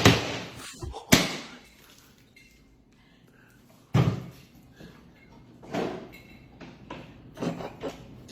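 A few separate knocks and thuds: two sharp ones near the start, a louder thud about four seconds in, then softer ones, with quiet stretches between.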